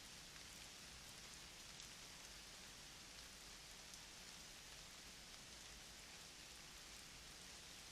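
Faint, steady outdoor hiss with a few soft scattered ticks.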